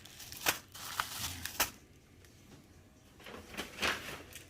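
Firework packs being handled: wrappers and cardboard boxes rustling and knocking in a few short clicks, three in the first couple of seconds and a cluster near the end.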